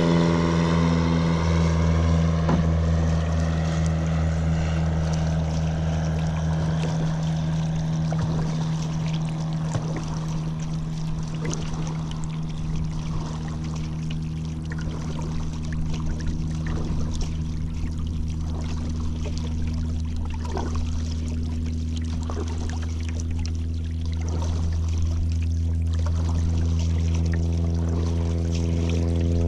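A motor's steady drone, shifting in pitch for the first couple of seconds and then holding steady, with light water splashes and drips from a kayak paddle.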